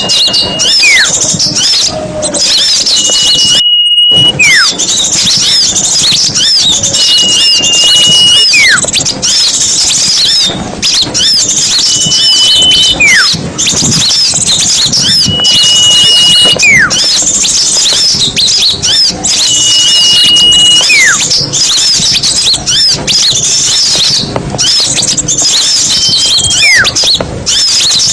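Lure recording of a mixed chorus of small songbirds: a dense, busy chatter of many short high chirps and trills. Every three to four seconds one call repeats: a high whistle held about a second, followed by a short note sliding downward. The sound cuts out briefly about four seconds in.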